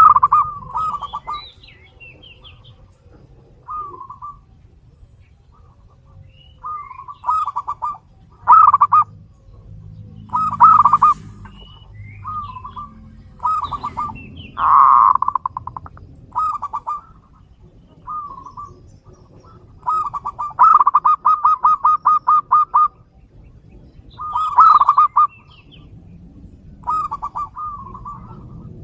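Zebra doves (perkutut) cooing: repeated phrases of quick staccato notes on nearly one pitch, coming every second or two, with one long fast rattling run about two-thirds of the way through. Faint higher chirps of other small birds sound in between.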